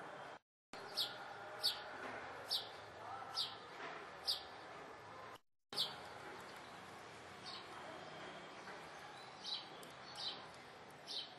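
Small bird chirping, short single chirps each falling in pitch, about one a second at first and sparser later, over a faint background hiss. The sound cuts out completely twice, briefly, where clips are joined.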